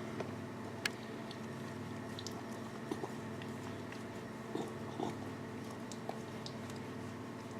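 Wood fire burning, with sharp irregular crackles and pops of the burning logs over a steady low hum.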